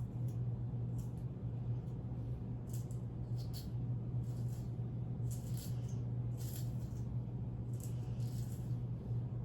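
Steady low hum with light, intermittent rustling and scraping sounds over it.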